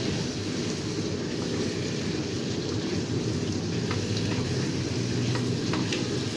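Chicken pieces sizzling as they fry in oil in a wok, stirred and turned with a spatula, with a few light knocks of the spatula on the pan in the last couple of seconds. This is the bhuna stage, with the meat frying hard in its spice paste over high heat.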